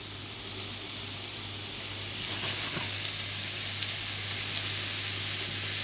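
Chanterelle mushrooms sizzling as they fry in hot olive oil in a frying pan, the sizzle growing louder about two seconds in, with a few faint scrapes of stirring.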